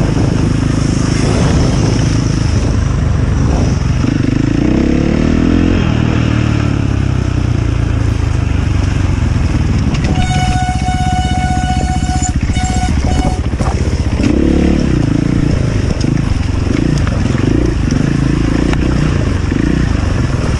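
Enduro motorcycle engine running hard, its revs rising and falling repeatedly. About halfway through, a steady high-pitched tone with overtones sounds for about three seconds.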